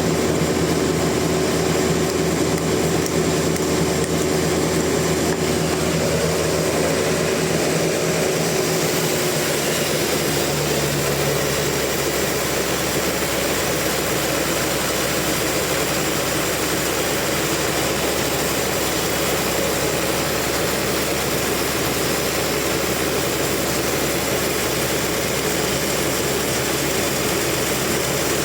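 Sawmill machinery running steadily and loudly. About a third of the way in, the humming pitch shifts and gives way to a steadier, rougher noise for the rest.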